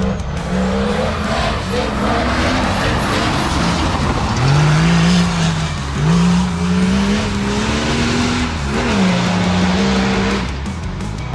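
Off-road 4x4 race vehicle's engine running hard under acceleration. Its pitch climbs and falls back several times, as with gear changes.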